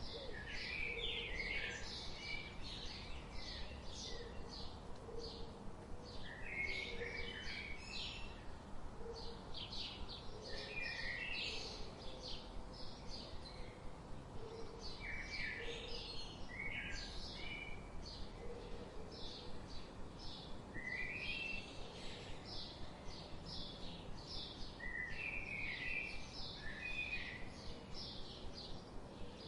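Songbirds chirping in a dense chorus of short, high calls, several a second, with a lower call repeating now and then underneath.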